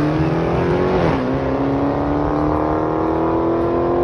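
Car engine accelerating hard down a drag strip, its pitch climbing through the gears with a sharp drop at an upshift about a second in, then rising slowly again.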